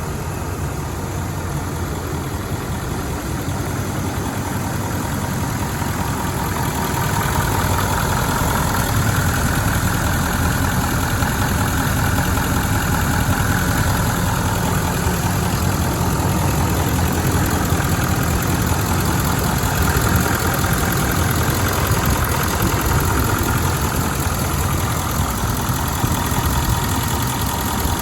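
Nissan Titan XD's turbo-diesel V8 engine running steadily at idle, getting a little louder about seven seconds in; the engine has been rebuilt.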